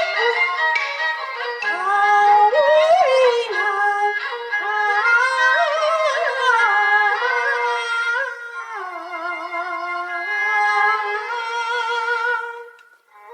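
Peking opera aria singing: a high voice drawing out long, ornamented held notes with wavering pitch over a steady instrumental accompaniment. The sound fades out briefly near the end.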